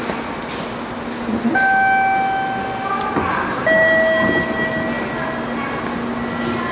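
Train noise at a Shinkansen station: a steady low rumble, with two long steady tones of about a second and a half each, the first higher and the second lower, starting about a second and a half in.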